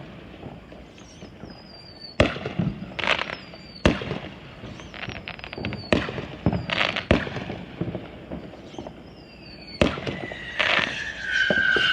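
Consumer fireworks going off: a string of sharp bangs, each followed by crackling, and from near the end a steady whistling shriek of a whistling firework.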